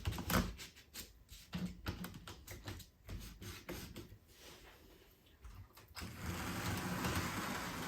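Light clicks and knocks of a Tyco HO-scale model locomotive being set on the rails, then, about six seconds in, its motor starts and it runs along the Code 83 track with a steady mechanical running sound.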